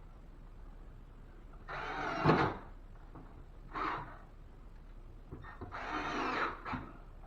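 Cordless drill driving drywall screws into a ceiling drywall patch, in three short bursts about two seconds apart, the first ending in a sharp knock.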